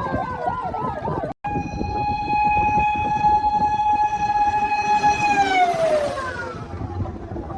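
Fire truck siren sounding over a low vehicle rumble: a fast warbling wail at first, a brief cut-out about a second and a half in, then a steady held siren tone that slides down in pitch near the end.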